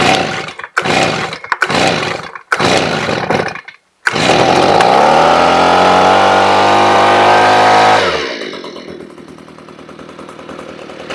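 Stihl BG85 two-stroke leaf blower being pull-started: several quick tugs on the recoil starter, then the engine catches about four seconds in and runs for about four seconds, rising in pitch, before it dies and the blower winds down. It is running on fuel squirted into the carburetor, which the repairer believes is all it ran on, since the primer bulb would not draw fuel.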